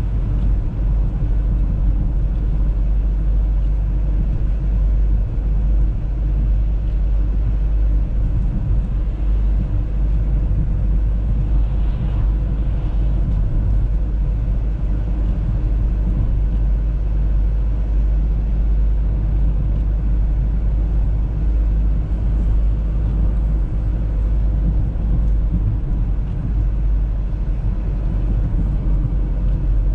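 Steady low rumble of an Audi A3 driving along, with road, tyre and engine noise heard from inside the cabin.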